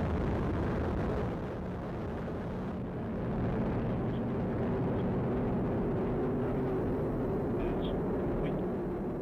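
Atlas V 411 rocket's RD-180 first-stage engine and single solid rocket booster firing in the first seconds of ascent: a steady, dense roar, heaviest in the low end.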